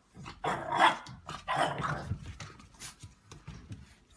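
A dog vocalizing: two loud, rough calls about a second apart, followed by quieter sounds.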